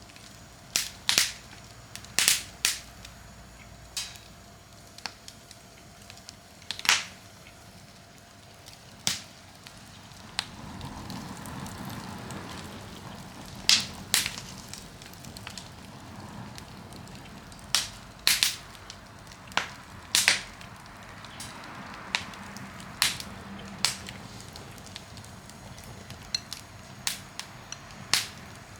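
Wood campfire crackling, with irregular sharp pops from the burning wood, a few coming in quick doubles. A soft rushing hiss from the fire swells about ten seconds in and again around twenty seconds.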